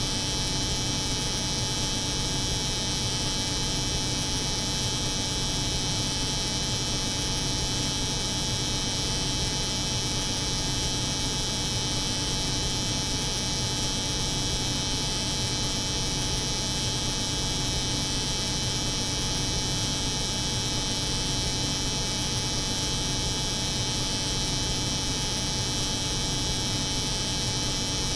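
Steady layered drone of a cold room's refrigeration hum and an electric hair clipper's buzz, unchanging throughout.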